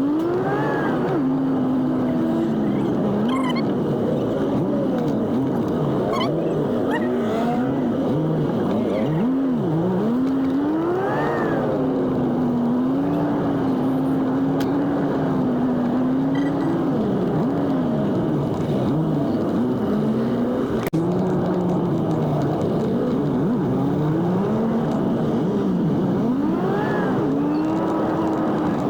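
Jeepney engine and road noise played back at four times speed. The engine's pitch climbs and drops in quick arcs every few seconds as it revs and shifts, with a steady drone in between.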